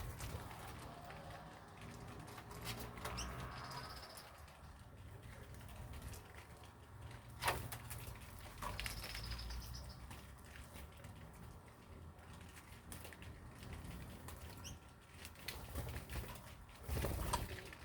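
Birds fluttering and moving about, with scattered light clicks and taps and a couple of short high chirps.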